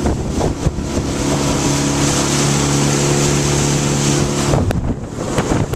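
Motorboat engine running at a steady pitch with rushing wind and water hiss while under way; about four and a half seconds in the engine note drops away abruptly.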